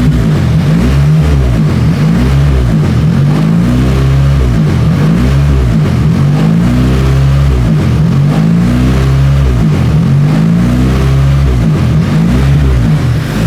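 Car engine idle surging: the revs rise and fall over and over, about every second and a half. The owner has ruled out vacuum leaks and leans toward a fault in the tune.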